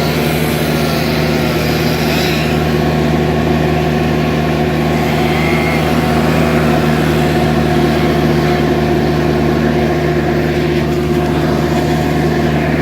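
Skid steer engine running at a steady speed, a constant loud hum with no change in pitch.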